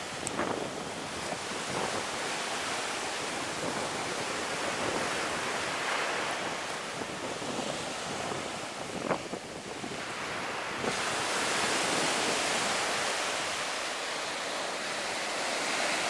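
Ocean surf washing on a beach, a steady noisy hiss with wind buffeting the microphone; it grows brighter and a little louder about eleven seconds in. A sharp knock about nine seconds in.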